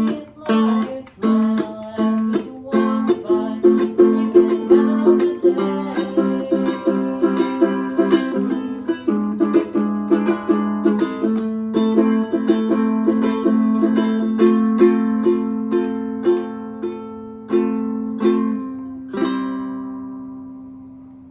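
A plucked string instrument playing a picked tune, note after note. Near the end a last note is struck and left to ring, fading away.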